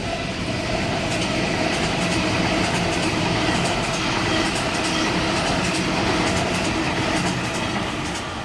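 Sydney Trains Waratah (A set) electric train passing through the station: a steady rumble of wheels on rail with a rhythmic clickety-clack over the rail joints, easing a little near the end.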